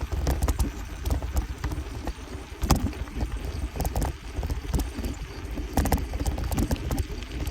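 Bicycle being ridden over a rough, bumpy trail: irregular rattles and knocks from the bike and its handlebar phone holder, over a low rumble of wind on the microphone.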